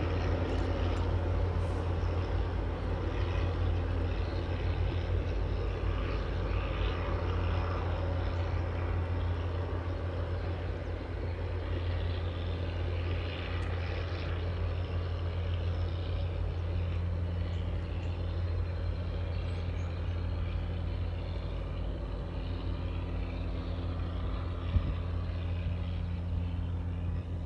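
Diesel-hauled commuter train crossing a steel trestle viaduct at a distance: a steady low rumble of locomotive and wheels on the bridge, slowly fading as the train moves away.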